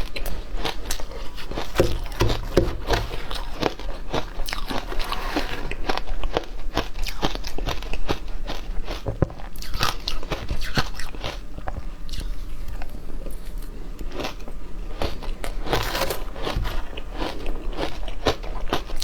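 Frozen matcha ice being bitten and chewed close to the microphone: a continuous run of sharp, irregular crunches.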